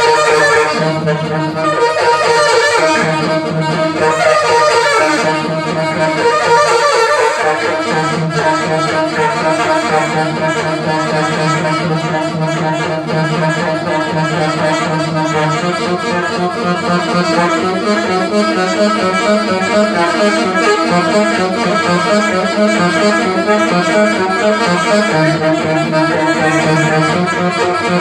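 Live band music: an instrumental passage with a continuous melodic lead and no singing, the bass line changing about halfway through.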